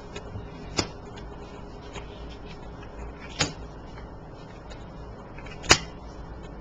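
Three sharp taps a couple of seconds apart, the last the loudest: tarot cards being laid down on a table.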